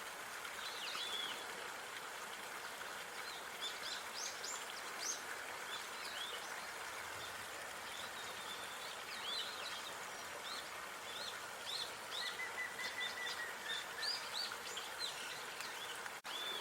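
Small songbirds chirping and twittering in quick, high, short notes, with one held whistled note near the middle, over a steady background hush of outdoor park ambience. The sound drops out for an instant near the end.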